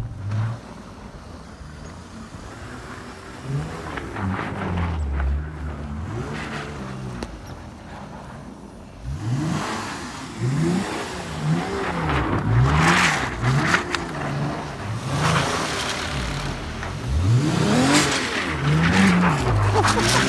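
Car engine revving up and down again and again as the car is thrown sideways, the revs rising and falling quickly and growing louder about halfway through, with bursts of hissing noise from the spinning tyres.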